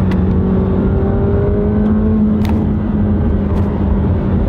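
McLaren 720S's twin-turbo V8 running steadily under way, heard inside the cabin over road and tyre noise, its pitch creeping up slightly in the middle. Three short sharp ticks cut through: at the very start, about two and a half seconds in, and about a second later.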